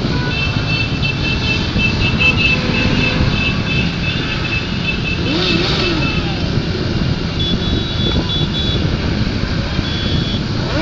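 A stream of motorcycles passing in city traffic: many engines running and revving in a continuous wash. Engine pitch rises and falls about halfway through, and short high-pitched beeps sound over the engines.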